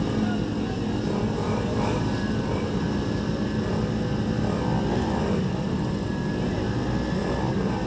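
Pit bike engines running flat out in a race: several small single-cylinder bikes blending into one steady drone, with faint rising and falling pitches as riders work the throttle.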